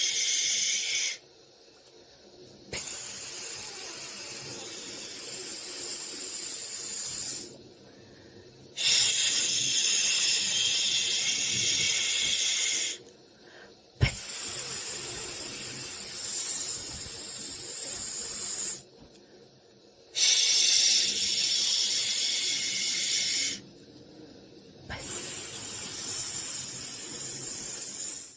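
Soothing white-noise hiss, high and even, coming in stretches of about four to five seconds, each broken off by a pause of about a second and a half, so that it pulses like repeated shushing.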